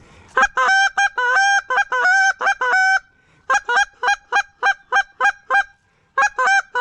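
Goose honking: a rapid series of short, loud honks of the same pitch, in three runs with brief pauses between them.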